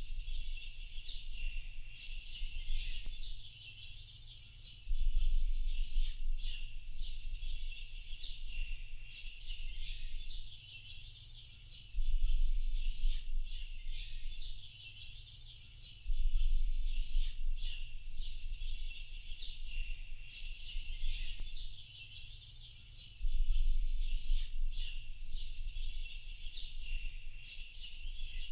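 Dense chorus of many small birds chirping and twittering together. A low rumble cuts in suddenly four times, each time for a second or two, and is the loudest part when it does.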